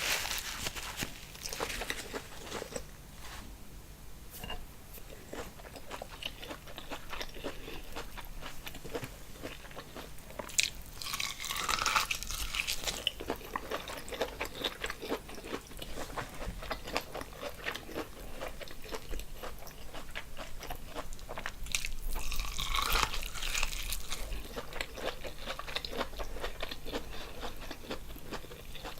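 Close-miked eating sounds: wet chewing, biting and crunching of a seafood boil, a steady run of small mouth clicks. It gets louder twice, about ten to thirteen seconds in and again about twenty-two seconds in.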